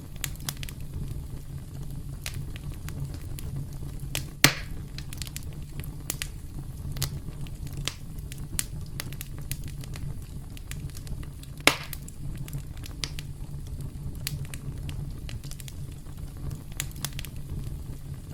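Campfire crackling: a steady low rumble of flames with scattered snaps, and two sharp, loud pops, about four and a half seconds in and again near twelve seconds.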